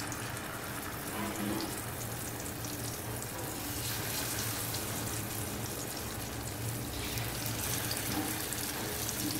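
Masala-coated steamed eggs sizzling and crackling in shallow hot oil in a frying pan as they are set in one by one. The crackling grows denser from about four seconds in and eases again near seven seconds.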